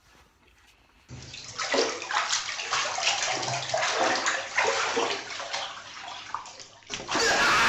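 Water splashing and sloshing, irregular and fairly loud. Near the end a louder, steadier rush of noise takes over.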